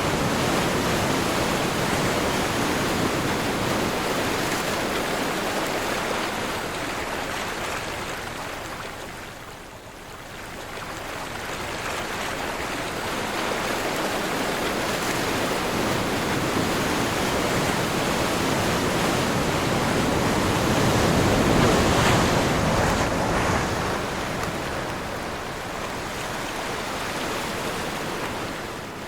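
Ocean surf on a windy day: waves washing in a steady rush that fades to a lull about a third of the way through, then builds to a louder surge about two-thirds in before easing again.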